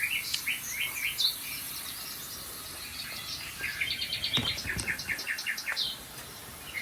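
Recorded birdsong playing from a TV: bursts of rapid chirps and trills, with a lull of about two seconds between them.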